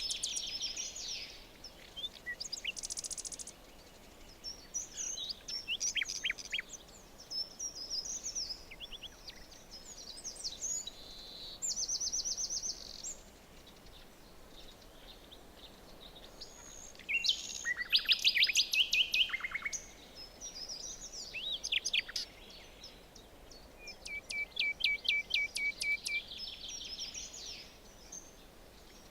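Several songbirds calling and singing in a forest, with quick chirps, whistles and rapid trills coming in bouts with short pauses between, over a faint steady background hiss.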